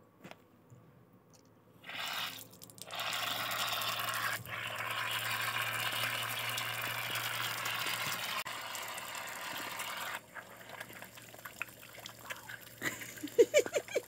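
Water running from a tap, with a short break or two, then shut off about ten seconds in, leaving scattered drips and small knocks.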